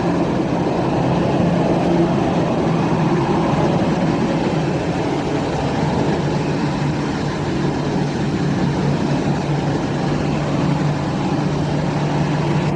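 Jet airliner engines running steadily, a continuous even noise with a low steady hum underneath.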